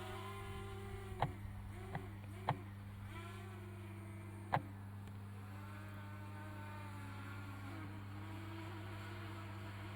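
Quadcopter drone buzzing in flight, its motor pitch wavering and dipping as it is steered, with a few sharp clicks in the first half and a steady low hum underneath.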